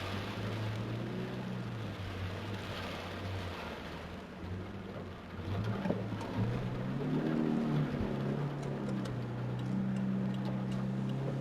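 Car engine running steadily under a haze of rain noise. About halfway through it revs up to a higher, louder note and holds there, as the car pulls through the storm.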